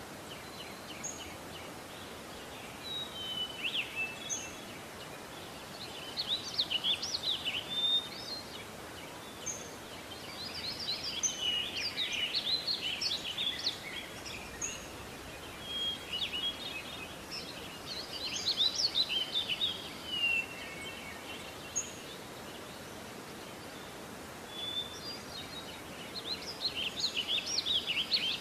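Songbirds singing in bursts of quick chirps and short whistles every few seconds, over a steady hiss.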